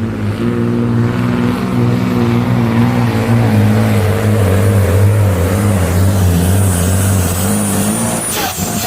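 Supersport pulling truck's engine running hard at high, steady revs under load, its pitch wavering a little, then dropping away shortly before the end.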